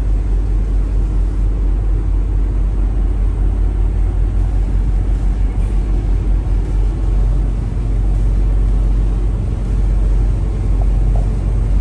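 Semi-truck's diesel engine running and road noise heard from inside the cab, a steady low rumble; it grows a little stronger about seven seconds in.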